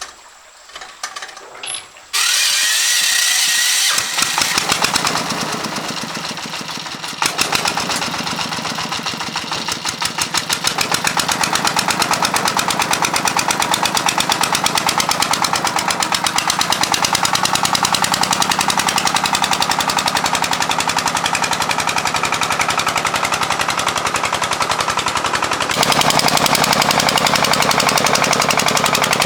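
Single-cylinder diesel engine of a công nông farm tractor starting up and running with a fast, steady knock. It gets louder near the end.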